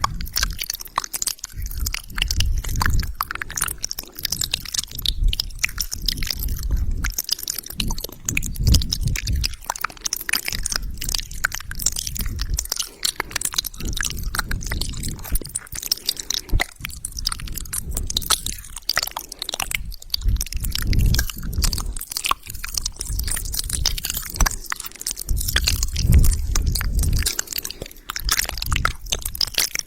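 Close-miked wet mouth sounds: a rapid, continuous run of lip smacks, tongue clicks and saliva pops, with soft low thuds swelling in now and then.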